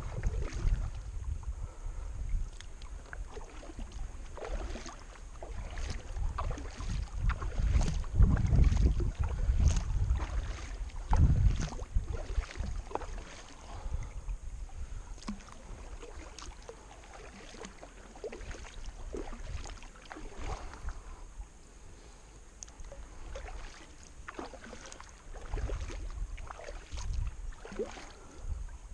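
Kayak paddle strokes dipping and splashing in the water as the kayak is paddled upstream against the current, with stretches of low wind rumble on the microphone, strongest around a third of the way in and again near the end.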